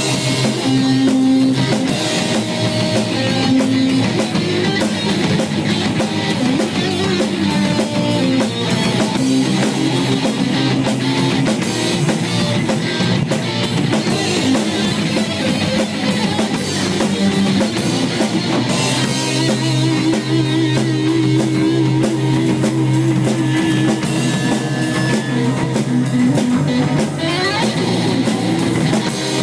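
Heavy metal band playing: electric guitars over a steady drum kit.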